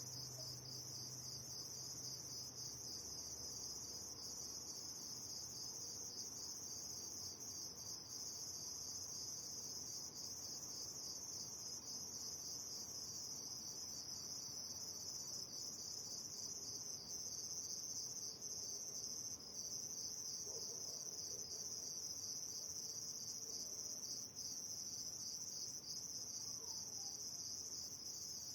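Crickets chirring at night in a dense, continuous chorus, a high trilling that never pauses.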